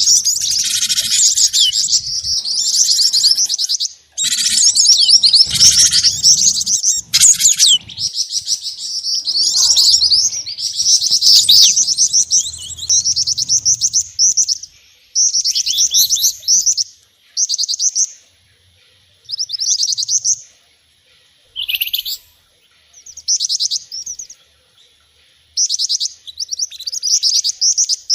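Small songbirds' high-pitched chirping calls played back as a bird-trapping lure: rapid trilled chirps, dense and overlapping for roughly the first fifteen seconds, then short bursts of chirps separated by brief pauses.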